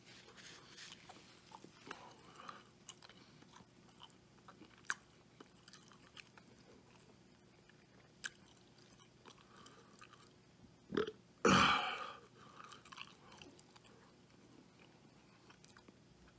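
A man chewing a mouthful of bacon cheeseburger, close to the microphone, with scattered soft mouth clicks. About eleven and a half seconds in there is one louder short breath or throat noise.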